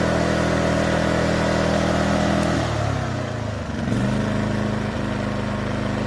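WEN 2350-watt inverter generator's small four-stroke engine running steadily with eco mode off. About three seconds in, its engine speed wavers and dips, then it settles at a new steady pitch.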